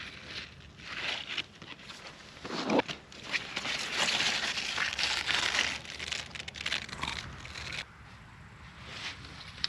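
Irregular rustling and crunching of plant foliage being handled and pulled, strongest in the middle and easing off about two seconds before the end.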